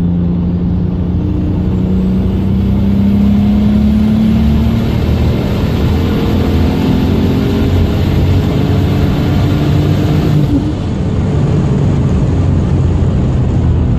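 Single-turbo BMW 335i inline-six under acceleration, its engine note climbing slowly with a high whine rising alongside. About ten and a half seconds in, the sound dips briefly and the whine cuts off, then the engine pulls on.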